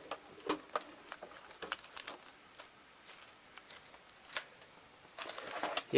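Scattered light clicks and taps of a snapped VHS cassette and its tape being handled, irregular and soft.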